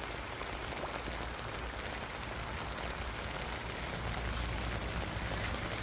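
Steady rain falling: an even hiss of drops with a few separate taps.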